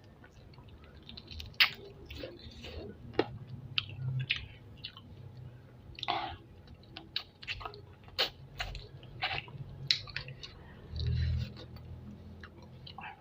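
Close-miked eating of spicy chicken feet: wet, irregular chewing, biting and sucking with sharp clicks.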